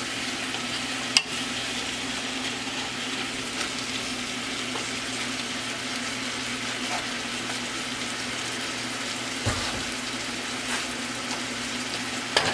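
Sliced bell peppers, broccoli and onions in soy and oyster sauce sizzling steadily in a large aluminium pot, over a steady low hum. A few sharp knocks stand out, about a second in and twice near the end.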